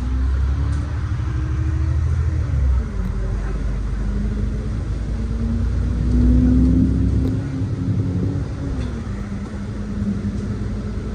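City bus engine and drivetrain heard from inside the cabin: a deep rumble under a droning tone that rises and falls several times with engine speed, loudest about six seconds in.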